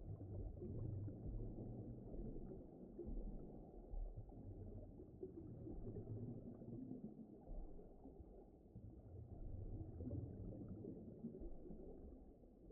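Low, muffled underwater-style rumble, a deep-ocean ambience that swells and fades unevenly, with no clear tones or clicks.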